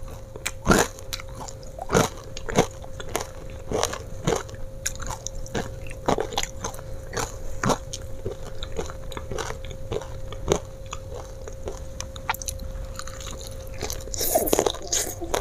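Close-up chewing and biting of crispy fried chicken: irregular sharp crunches of the fried coating, a few every second, with wetter mouth sounds near the end.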